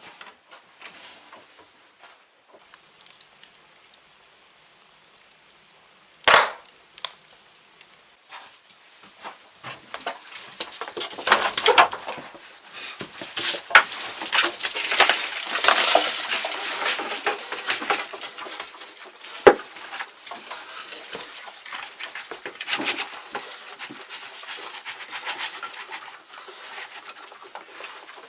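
Farm animals moving about in a barn: scuffling, pattering and scattered knocks on wood, busiest from about ten seconds in. There is a sharp single knock about six seconds in.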